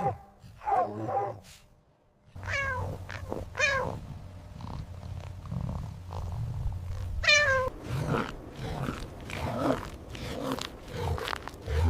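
Domestic cat purring with three meows, starting after a short pause about two seconds in. The tail of a dog's barking comes in the first second.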